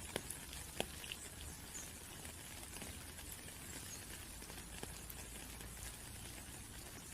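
Steady rain with light dripping, a soft even hiss broken by scattered small drop ticks.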